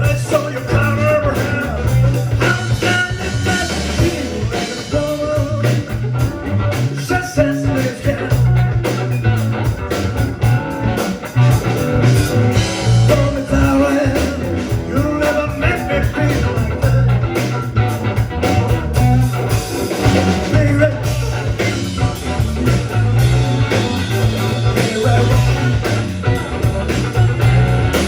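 Rock band playing a song live: electric guitar, bass and drums, with a singer.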